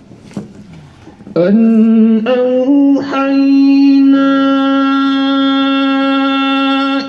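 A man's voice recites the Quran in slow, melodic tajwid style. After a short pause the voice enters about a second and a half in, rises briefly, then holds one long, steady drawn-out note.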